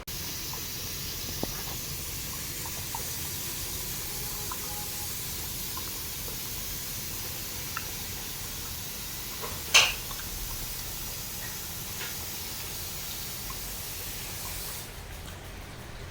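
Steady hiss of background noise with a few faint scattered clicks and one sharp clink a little under ten seconds in.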